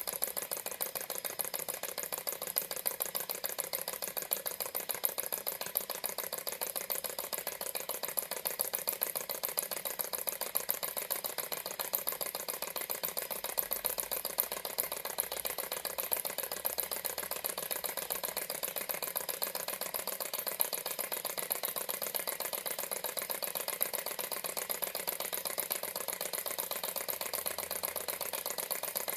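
Alcohol-fired model Stirling engine running steadily, its moving parts making a fast, even mechanical rattle.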